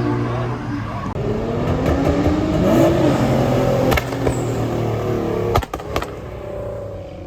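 Car engine revving up and falling back, with a few sharp exhaust pops about four and six seconds in, then the engine sound fading away.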